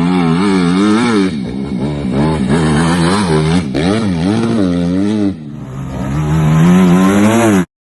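Dirt bike engine revving, its pitch rising and falling over and over as the throttle is worked. It drops back briefly a little past five seconds, then climbs high and cuts off abruptly near the end.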